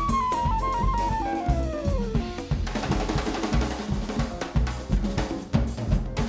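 Live jazz band: a wind instrument plays a descending run that ends about two seconds in, then the drum kit takes over with snare, bass drum and cymbals.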